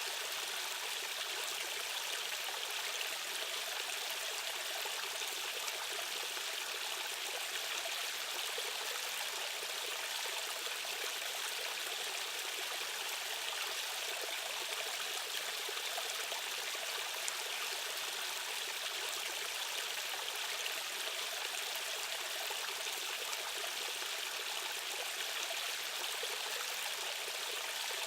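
Rushing stream water, a steady unbroken hiss of current over rocks with little deep rumble.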